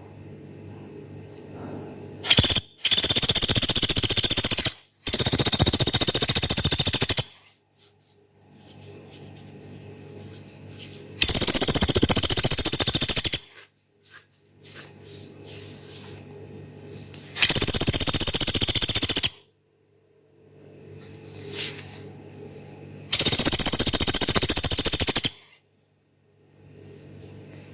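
Pelatuk beras, a small woodpecker, giving long, harsh, rapid rattling calls of about two seconds each, about five times, roughly six seconds apart. A faint steady hum lies between the calls.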